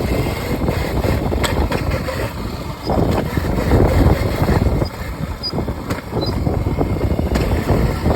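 Riding noise of a small 36-volt modded Razor electric dirt bike: an uneven rumble of tyres and wind on the microphone that swells and eases as it goes.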